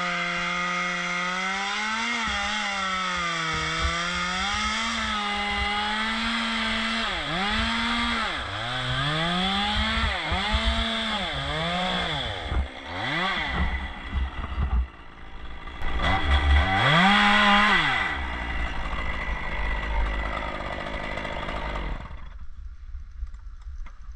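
Two-stroke chainsaw cutting into a dead fir. It runs at a steady high pitch at first, then its pitch dips and recovers several times as the chain bogs down in the wood, revs high once more, runs lower, and cuts out near the end.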